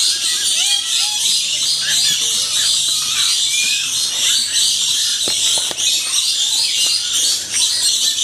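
A flock of lories chattering and screeching together: a dense, unbroken chorus of shrill, overlapping calls, with a few lower whistled notes mixed in.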